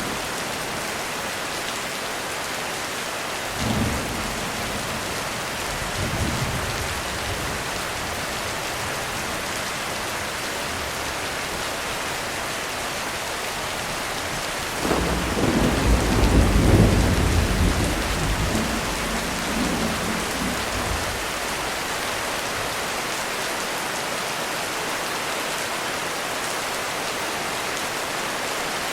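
Heavy rain falling steadily on a roof, with thunder: two short low rumbles about four and six seconds in, then a longer, louder roll of thunder from about halfway through, lasting several seconds before it dies away.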